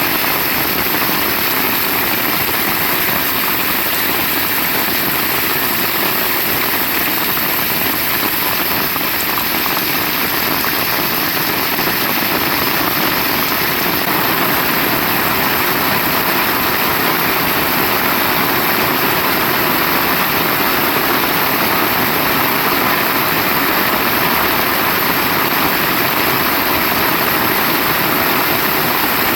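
Heavy rain falling steadily, a dense even hiss that stays the same throughout.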